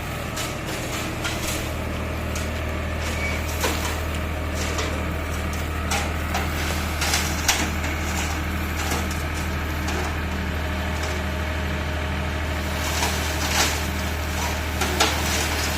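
Tractor engine running steadily at idle, with scattered short knocks and clatters over it.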